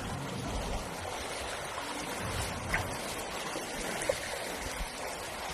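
Floodwater rushing and splashing in a steady wash of noise, with two brief sharp clicks about a second and a half apart.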